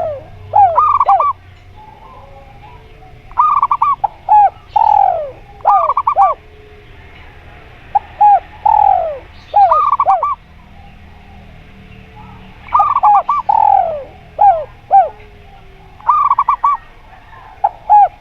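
Zebra dove (perkutut) song: repeated phrases of short, clear cooing notes, quick runs of three and drawn-out notes falling in pitch, coming in bursts every second or two with a pause about two-thirds of the way through.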